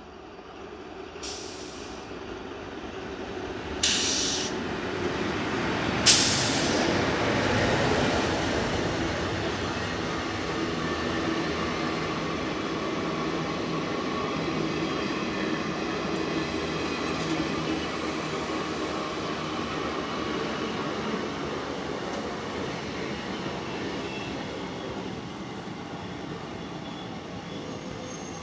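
Express train passing through at speed: the rumble builds, with two sharp loud bangs about four and six seconds in, then settles into a long steady rumble of the coaches rolling by, with a faint high metallic whine from the wheels.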